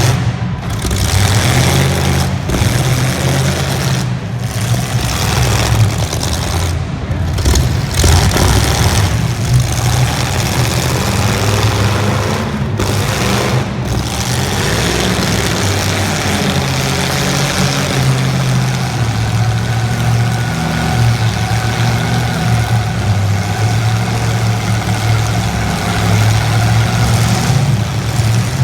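Engines of 1980s stock demolition derby cars running and revving, loud and continuous, with the sound cutting out for a moment several times in the first half.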